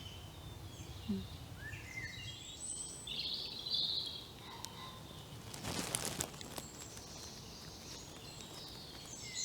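Woodland birds singing short chirping phrases, busiest in the first four seconds, over a faint steady outdoor background. A brief burst of noise comes about six seconds in.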